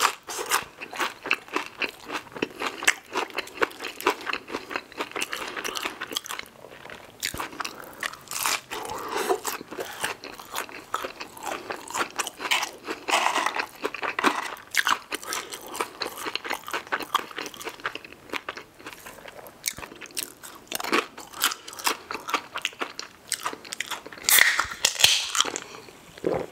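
Close-miked mouth sounds of chewing and crunching crispy fried food, a dense run of small crunches and clicks. Near the end, a louder moment of drinking from a soda can.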